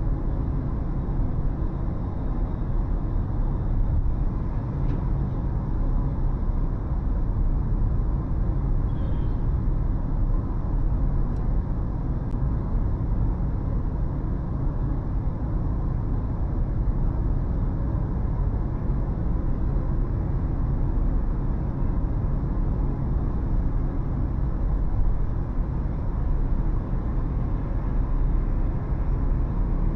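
Car driving on city roads: a steady low rumble of road and engine noise, with no change in level.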